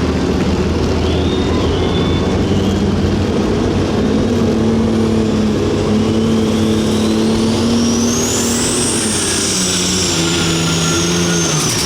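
Super stock pulling tractor's turbocharged diesel engine running loud and steady. A high turbo whine climbs over several seconds from about halfway in, then slowly falls away near the end.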